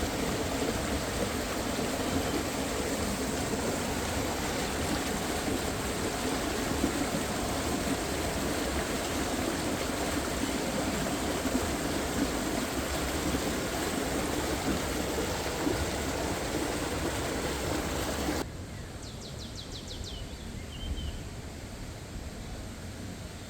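Minnehaha Creek's water rushing, a dense steady sound of flowing water that cuts off abruptly about three-quarters of the way through to a softer, quieter flow. Just after the cut, a bird gives a short run of high chirps.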